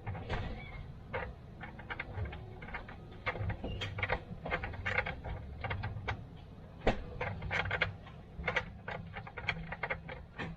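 Irregular sharp clicking and clinking of hand tools and metal parts being worked, several clicks a second, over a low steady hum.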